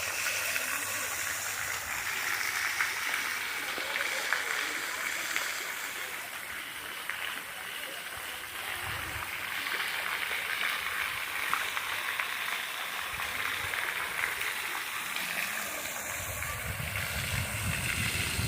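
Running water, a stream or small cascade, making a steady rushing and splashing. A low rumble joins in near the end.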